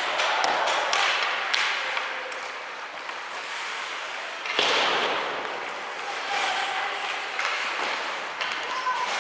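Ice hockey game sounds in an arena: sharp clacks of sticks and puck over a steady hum of rink noise and faint calls from players or spectators. About four and a half seconds in, a sudden louder rush of noise fades over a second or so.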